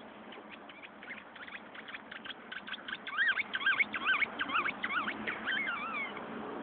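Dog chewing a squeaky toy: a run of short squeaks, each rising and falling in pitch, about three a second, louder from about halfway in.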